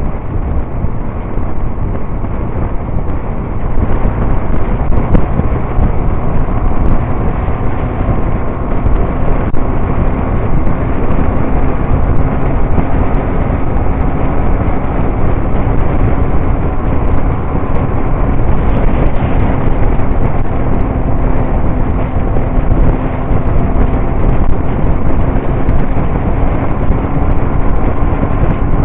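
Motorcycle riding along: a steady engine drone under heavy wind noise buffeting the microphone.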